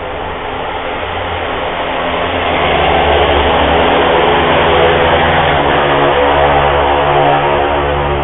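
Loud, steady mechanical drone with several held tones over a low hum, growing louder over the first three seconds and then holding. The recorder takes it for sport bikes held near redline with no gear changes.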